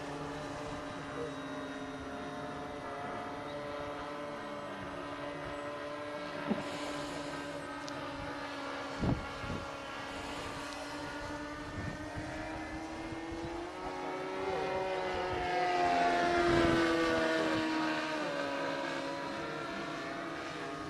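Radio-controlled model airplane in flight, its engine and propeller giving a steady buzz. The buzz grows louder and rises then falls in pitch as the plane passes close, about three quarters of the way through. A few short low thumps come near the middle.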